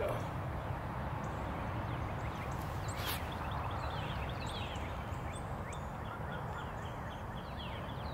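Birds chirping, many short, quick, falling chirps over a steady low rush of background noise, with one sharp click about three seconds in.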